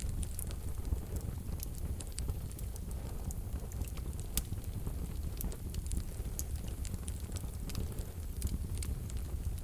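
Wood fire burning in a fireplace stove, crackling with scattered sharp pops over a steady low rumble; one louder pop about four and a half seconds in.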